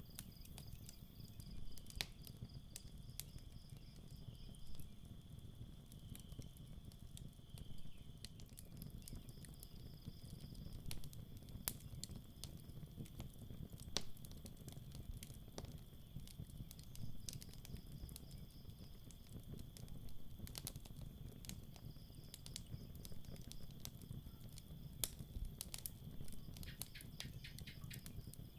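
Campfire crackling, with irregular sharp pops and snaps over a low rumble of burning, and crickets chirping steadily in pulsing trills.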